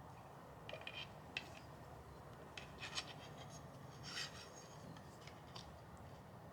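Plastic and fiberglass crossbow parts being handled during assembly: a few scattered clicks and rubbing scrapes over a low steady hum.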